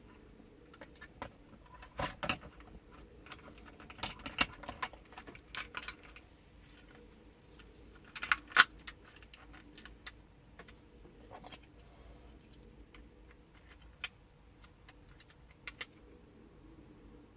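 Scattered clicks, taps and small rattles of the plastic toy tank and its small parts and screws being handled, with a cluster about 2 s in, another around 4 to 6 s, and the loudest clatter about 8.5 s in.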